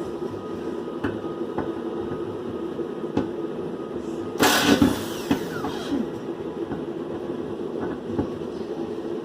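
Car exhaust removal work in a garage: a steady machine hum under scattered sharp metal clinks, with one loud burst of hiss-like noise about halfway through.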